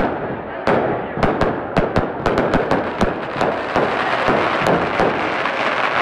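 Fireworks going off in quick succession: many sharp cracks and bangs, several a second, over a continuous hiss.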